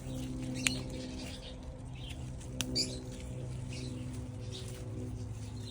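Two sharp snaps, about half a second and two and a half seconds in, as tomatillos are picked off the plant, over faint bird chirps and a steady low hum.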